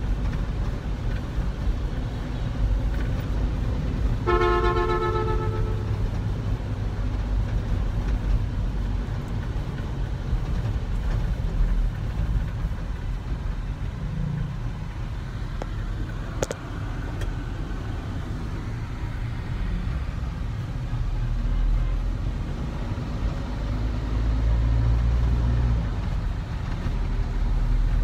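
Steady low rumble of a motor vehicle travelling on a road, with one horn honk about four seconds in lasting about a second and a half, and a single sharp click near the middle.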